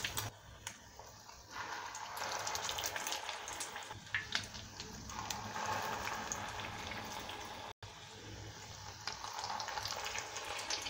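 Egg-dipped shami kababs sizzling as they shallow-fry in hot oil in a frying pan, the sizzle growing louder about a second and a half in as more patties go in. A few soft clicks as the patties are laid into the pan.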